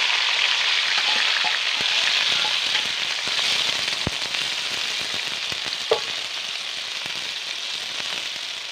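Chopped tomatoes sizzling in hot oil in a black kadai, the sizzle slowly easing, while a steel ladle stirs and scrapes against the pan. One sharper clink of the ladle on the pan comes about six seconds in.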